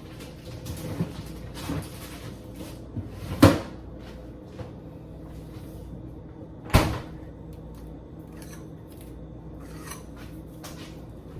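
Kitchen cupboard doors and groceries being handled while food is put away: small knocks and rustling, then two sharp bangs, about three and a half and seven seconds in, as doors are shut.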